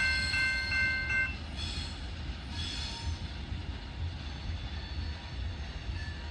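Freight train of tank cars rolling past with a low, steady rumble and brief wheel squeals. A grade-crossing bell rings rapidly over it and stops about a second in.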